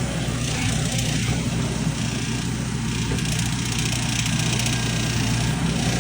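Volvo excavator running, its diesel engine and hydraulic pumps giving a steady mechanical drone. The pump noise is very loud. It is an abnormal noise that the mechanic traces to the No. 2 (rear) hydraulic pump, whose pressure he takes to be unstable.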